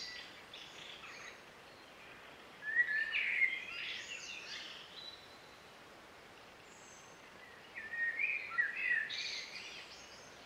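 A songbird singing: two short phrases of quick, varied whistled notes, about three seconds in and again about eight seconds in, over a faint steady hiss.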